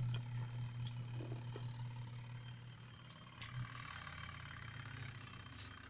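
Twin-tub washing machine spin motor switched on but not turning, giving only a steady low hum that weakens about three and a half seconds in. The stalled motor points to a motor or capacitor fault, with the motor capacitor the suspected cause.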